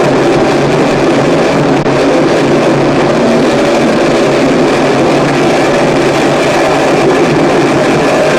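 Harsh noise music: a loud, unbroken wall of distorted noise with low humming tones running steadily through it.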